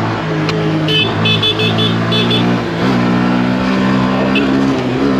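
Mini bike engine running as it is ridden, its pitch stepping up about three seconds in. A quick run of short high beeps sounds about a second in.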